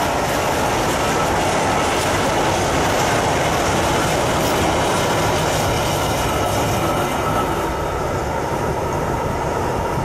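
Steady rolling rumble of a freight train's open coal wagons on their steel wheels and rails as the last cars pass. The upper part of the noise thins in the second half as the train moves away.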